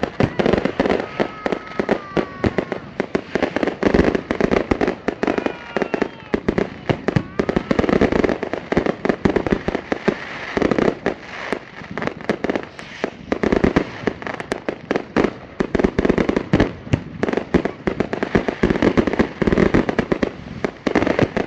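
Fireworks display: a rapid, unbroken barrage of bangs and crackles from many shells going off, with a few brief whistles among them.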